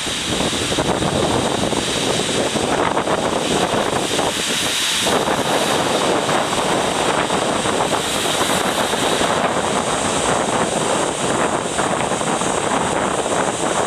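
Large typhoon swell of 5–6 m waves breaking continuously on the shore as a steady, loud surf noise, with strong wind blowing on the microphone.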